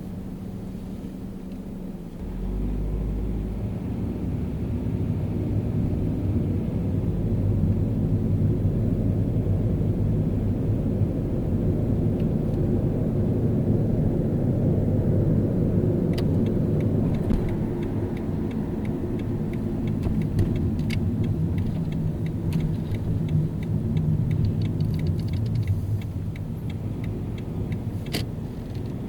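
A car driving in city traffic: steady low engine and road rumble. It gets louder about two seconds in and stays up. Scattered light ticks come in during the second half.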